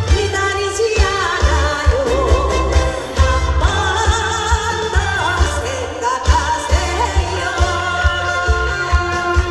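Trot song sung live over a backing track: a solo voice carrying the melody above a steady beat.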